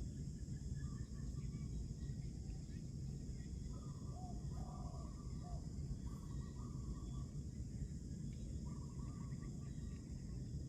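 Outdoor ambience: a steady high insect drone over a low rumble, with several short chirping calls scattered through it, a cluster of them about four to five seconds in.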